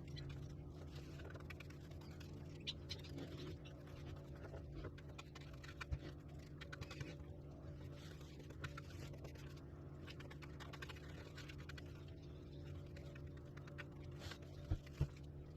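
Paintbrush stroking and dabbing water-based primer onto a ceiling patch: faint scratchy brushing with many small taps, over a low steady hum.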